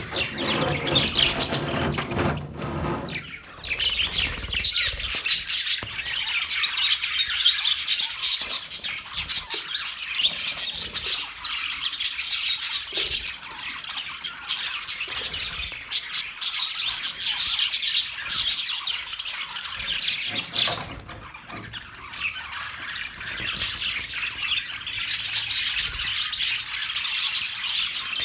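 Budgerigars chirping and chattering, many short overlapping calls and squawks with no pause, with a lower-pitched sound underneath for the first three seconds.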